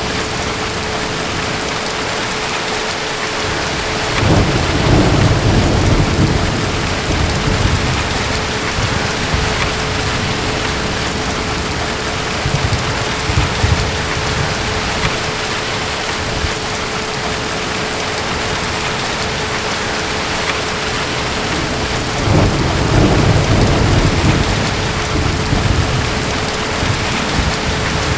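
Steady heavy rain with distant thunder: two deep rolling rumbles, one about four seconds in and one a little past twenty seconds, each swelling for a few seconds before fading back into the rain.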